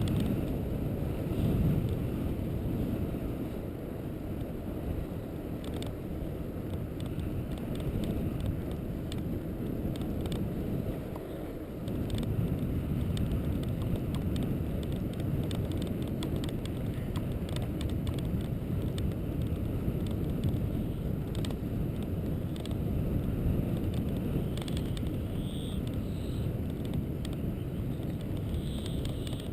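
Steady low rumble of travel along a road, with wind on the microphone and occasional small knocks; it dips briefly in the middle.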